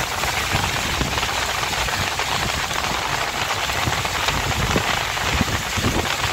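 Steady hiss of rain and water, heard from inside a car moving through a flooded street, with an uneven low rumble underneath.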